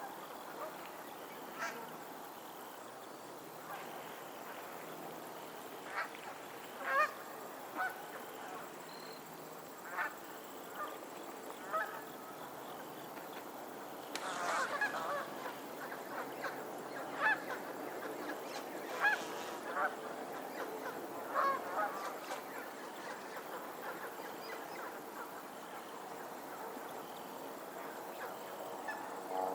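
Geese honking on a lake: scattered short honks, busiest in a run of calls about halfway through, over a steady background hiss.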